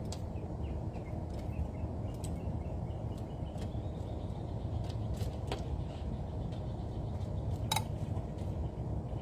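Outdoor background with a steady low rumble, scattered faint bird chirps and a single sharp click about three-quarters of the way through.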